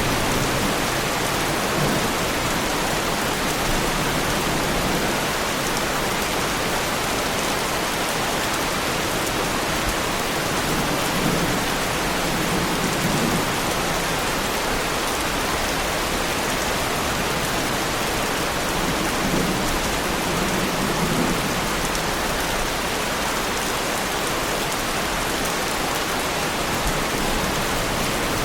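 Heavy rain falling steadily on a car's bodywork, with low thunder rumbles a few times.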